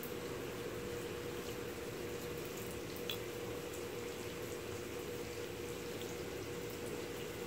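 Rain falling during a night thunderstorm, a steady wash with scattered drips and ticks, one a little stronger about three seconds in, over a constant low hum.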